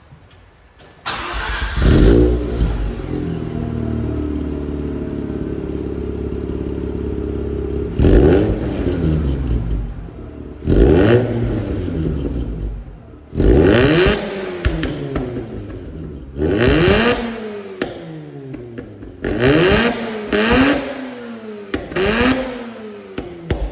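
Mazda rotary engine with an aftermarket exhaust starting up about a second in and settling to a steady idle, then blipped about seven times, each rev rising and falling back to idle.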